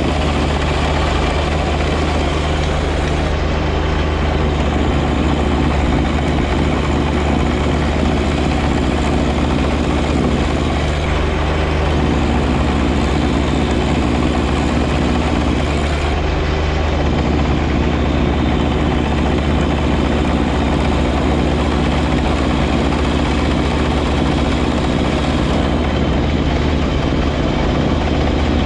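John Deere 1025R compact tractor's three-cylinder diesel running steadily at working speed, driving its 54-inch front snow blower.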